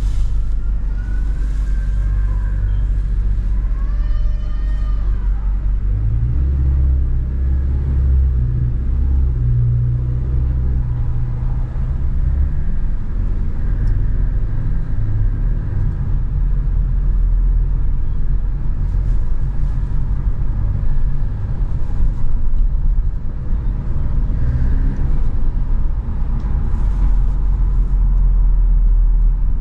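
Ferrari F8 Spider's twin-turbo V8 running at low revs, a steady low rumble that grows louder about six seconds in and again near the end.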